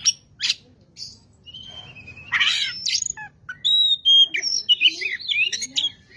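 Oriental magpie-robin (kacer) singing: a varied run of clear whistles, rising and falling slurs and harsh scratchy notes, loudest in the second half.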